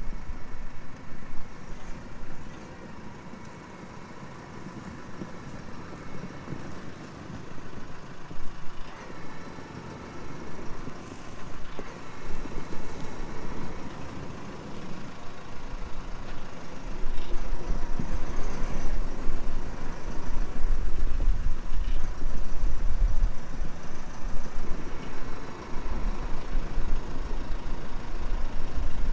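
Compact tractor engine running steadily during hitching manoeuvres, growing louder about halfway through.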